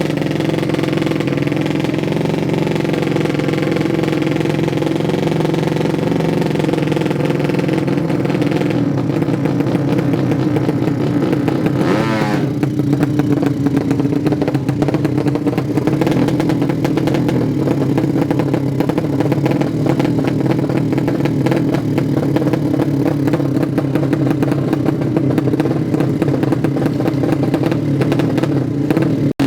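A 200cc racing motorcycle engine running loud and steady at a held speed, with a brief sweep in pitch about twelve seconds in.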